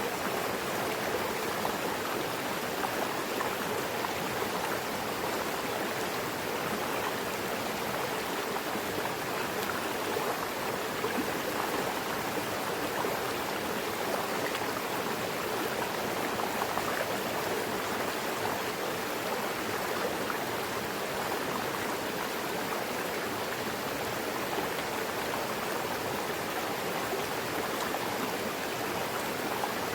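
Mountain river rushing steadily over rocks, a constant, even water noise.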